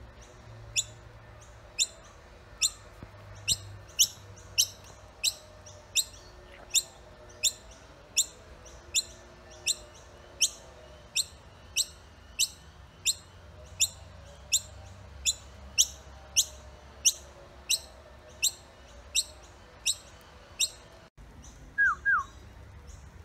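Baby bird calling over and over with short, high, sharp peeps, about one and a half a second, at a steady pace. Near the end come two quick lower notes that fall in pitch.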